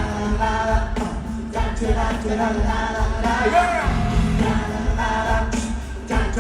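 Live pop concert music: a band playing with sung vocals, held notes wavering in pitch.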